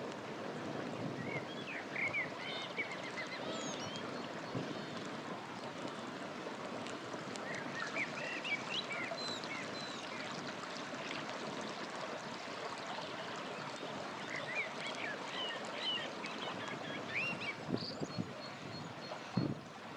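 A river running steadily, with small birds chirping in three spells of quick calls. A few sharp crackles from a campfire stand out near the end.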